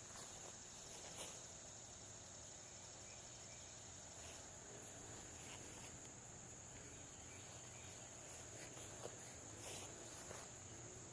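Faint, steady, high-pitched insect chorus, with a few soft knocks now and then.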